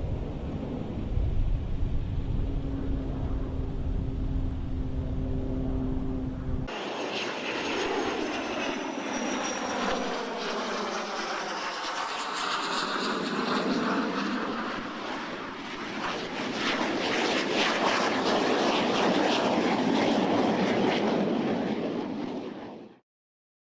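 X-47B unmanned jet's turbofan engine: first a low, steady rumble, then, after an abrupt change about seven seconds in, the loud whoosh of the jet passing, with sweeping shifts in tone. It cuts off suddenly near the end.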